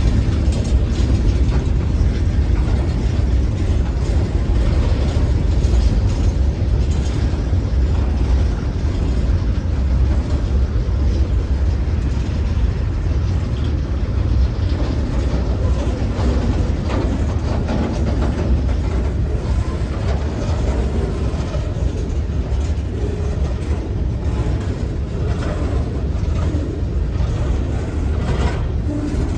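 A train's cars rolling past: a steady heavy rumble with irregular metallic clicks and clanks from the wheels and cars on the rails.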